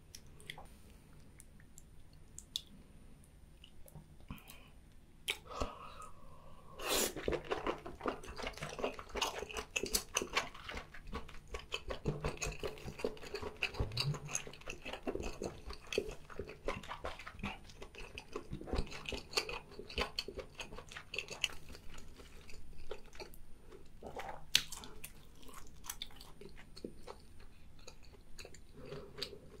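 Close-miked chewing of a whole boiled baby octopus: dense clicks and crackles of chewy flesh, starting a few seconds in and thinning out near the end.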